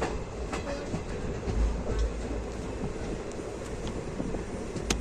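Train running along the track: a steady rumble with scattered clicks of wheels over rail joints, and one sharp click near the end.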